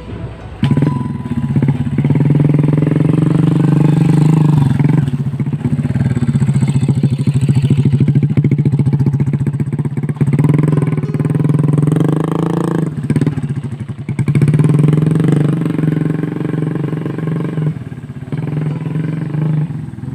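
Small motorcycle engine labouring under load while hauling harvested oil palm fruit over a muddy track, its revs rising and falling and briefly easing off several times.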